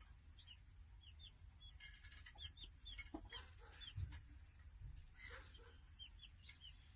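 Faint bird chirping: many short, quick chirps repeated throughout, over a low background rumble.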